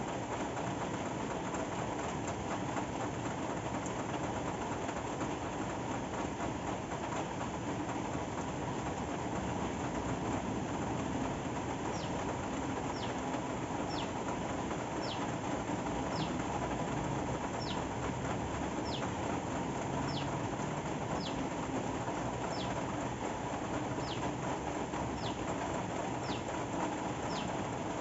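Steady rain falling. From about halfway through, a short high chirp that falls in pitch repeats about once a second.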